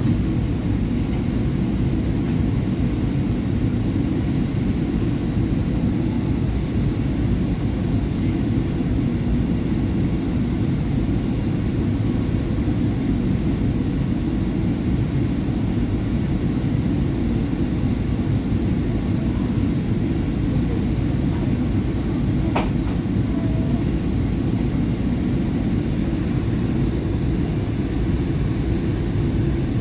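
A SEPTA Market-Frankford Line train car running at speed, a steady low rumble of wheels on rail, with a single sharp click about two-thirds of the way through.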